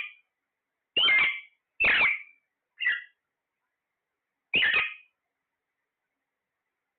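Parrot giving short, high-pitched squawks, one about every second, then one more after a longer pause.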